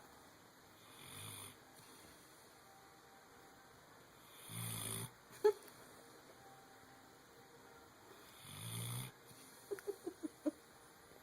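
Pit bull snoring in its sleep: three snores about four seconds apart, the first fainter than the other two. A single sharp click falls between the second and third snore, and a quick run of five short squeaky sounds comes near the end.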